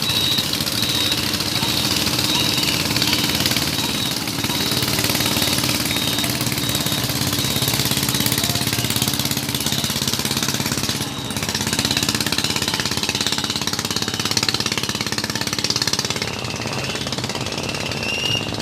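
Small engine running steadily with a fast, even pulsing beat.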